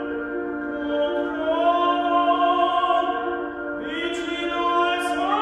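Operatic singing: a classically trained voice holding a few long notes, changing to new notes about four seconds in.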